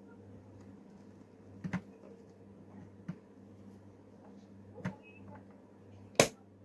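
Four separate sharp clicks or knocks, the last and loudest near the end, over a steady low hum.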